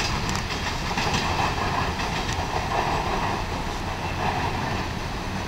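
Freight train's hopper cars rolling past: a steady rumble of steel wheels on the rails with a few faint clicks from the rail joints.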